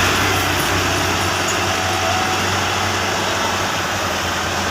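Tractor diesel engine running steadily with a constant low note.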